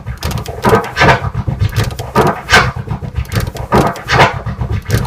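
Turntable scratching of a kick and snare drum sample in quick rhythmic phrases of clipped strokes that sweep up and down in pitch. The pattern is a hybrid 4-click orbit and 5-tear scratch.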